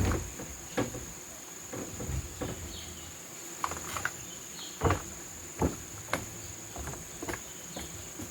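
Insects droning steadily at one high pitch, with a handful of irregular sharp knocks and taps on top; the two loudest come around five seconds in.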